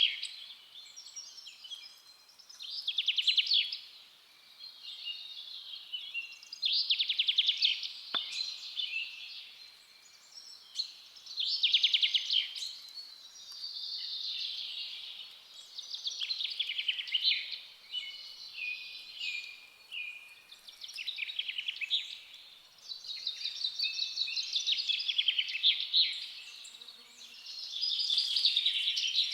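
Songbirds singing in a forest, with phrases of rapid trilled and chirped notes repeating every few seconds over a faint steady background.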